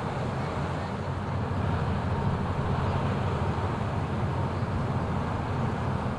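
Steady low diesel engine rumble of an inland ship passing on the river.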